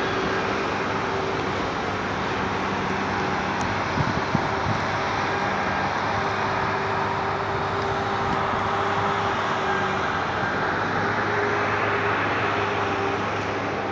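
A running engine: a steady hum under an even rushing noise, with a few faint knocks about four seconds in.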